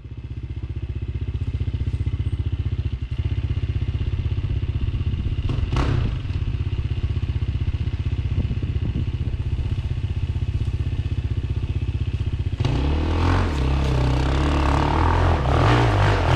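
KTM 350 EXC-F dirt bike's single-cylinder four-stroke engine idling with an even beat, with a brief clank about six seconds in. About three-quarters of the way through it gets louder and the engine note starts rising and falling as the bike is revved and ridden off.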